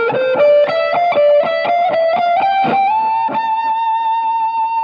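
Electric guitar played through a NUX Cerberus multi-effects pedal: a line of picked notes climbing step by step, then one long held high note from about three seconds in.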